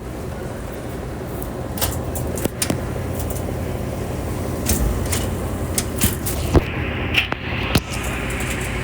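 Scattered clicks and knocks, several close together in the second half, over a steady low hum.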